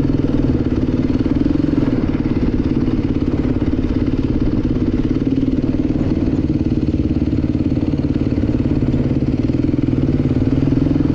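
Dirt bike engine running steadily while riding, holding an even pitch with no revving.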